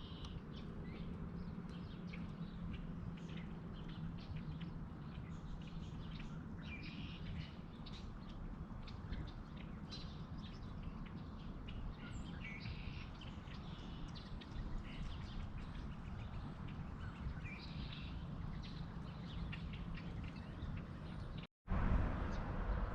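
Small birds chirping in short, scattered calls, faint against a steady background hiss and a low steady hum. The sound cuts out completely for a moment near the end.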